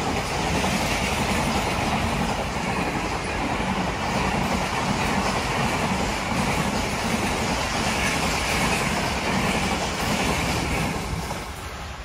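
Passenger express train coaches rolling past at speed, with a steady rush and clickety-clack of wheels over the rail joints. The sound dies away sharply near the end as the train goes by.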